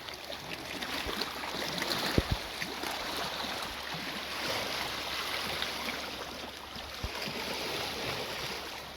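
Seawater washing and lapping over reef rocks in a slowly swelling rush, with a couple of dull low thumps, about two and seven seconds in.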